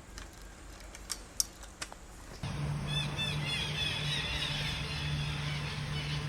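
A few faint sharp clicks, then a run of quick, high bird chirps over a steady low hum starting about two and a half seconds in.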